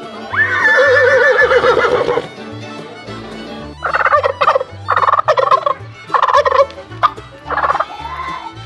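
A turkey gobbling: one long warbling gobble, then a run of quick gobbles from about four seconds in, over background music with a steady bass line.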